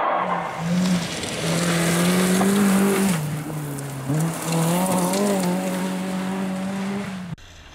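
Fiat Cinquecento rally car's engine pulling hard, its note rising and falling through gear changes, over a steady hiss of tyres and gravel. The sound cuts off suddenly near the end.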